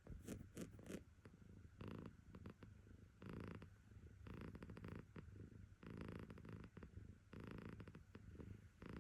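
Cat purring, its purr swelling and fading with each breath about every second and a half.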